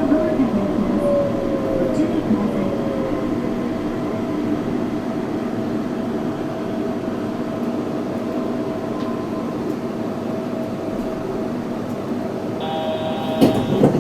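Yurikamome 7300-series rubber-tyred automated guideway train running, heard from inside at the front: a steady running noise with motor whine, one whine sliding down in pitch over the first few seconds. A short electronic tone sounds about a second before the end.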